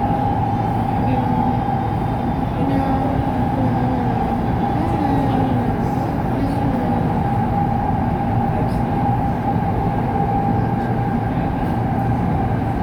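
LRT Line 2 light-rail train running at speed, heard from inside the car: a steady rumble with a constant high whine.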